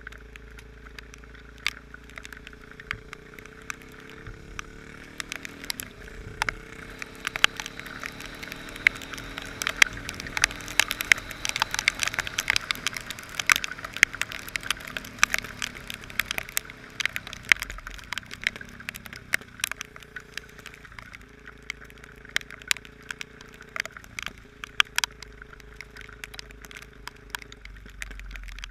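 Heavy rain striking close to the microphone as dense sharp ticks and cracks, thickest in the middle, over a motorcycle engine running with a steady tone that shifts in pitch.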